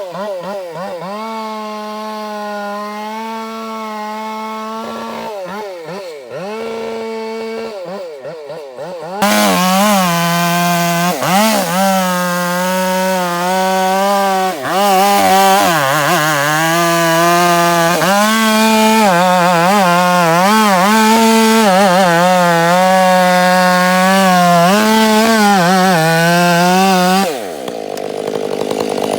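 Two-stroke chainsaw running, then cutting into timber at full throttle from about nine seconds in, its pitch dipping and recovering under the load. Near the end it comes out of the cut and the engine drops back.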